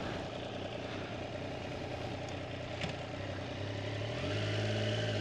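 Triumph Daytona 765 Moto2's three-cylinder engine idling through its stock Arrow exhaust, a steady note; about four seconds in the idle rises slightly and gets a little louder.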